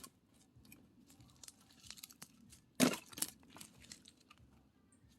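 One sharp wooden knock about three seconds in, followed quickly by a lighter one, amid faint rustling and small clicks of split firewood being handled.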